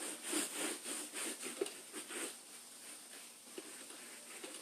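A scrub brush scrubbing a wet rubber anti-fatigue mat in rhythmic back-and-forth strokes, about two to three a second, to work grease buildup off. The strokes ease off about halfway through.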